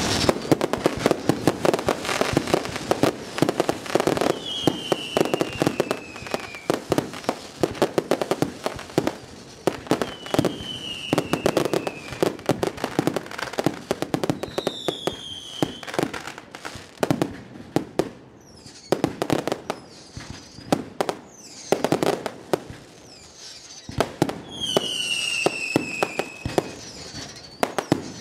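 Fireworks going off: a dense run of sharp cracks and pops from bursting shells and crackling effects, with several whistles, each falling in pitch over a second or two.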